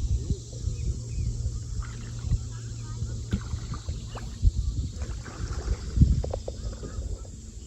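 Kayak paddling, with paddle strokes knocking and splashing against wind rumbling on the microphone. A low steady hum runs through the first half.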